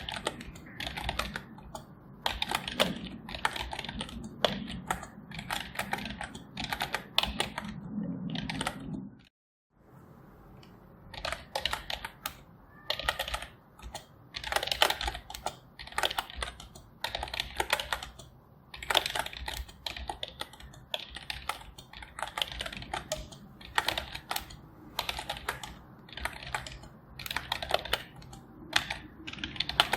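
Typing on a computer keyboard: runs of rapid, irregular keystroke clicks with short pauses between them. The sound cuts out completely for about half a second about nine seconds in, then the typing resumes.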